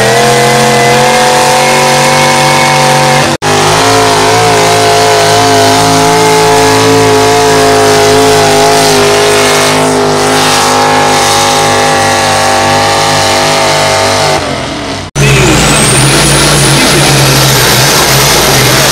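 Competition pulling vehicle's engine running hard under load, loud and steady, its pitch sagging slowly. The sound breaks off abruptly twice as clips change. After the second break another engine carries on with a high whine that rises and then holds.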